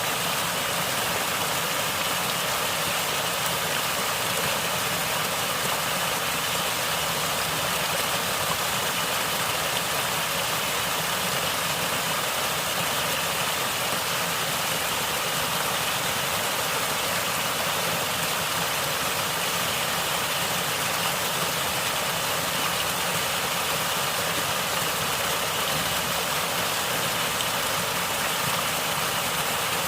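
Natural flowing water gurgling steadily, an even rushing noise that holds the same level throughout.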